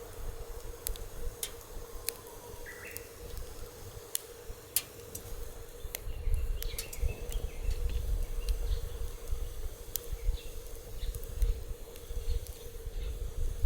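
Wood fire crackling, with sharp pops at irregular intervals. Wind rumbles on the microphone underneath, stronger from about six seconds in, and a faint steady hum runs throughout.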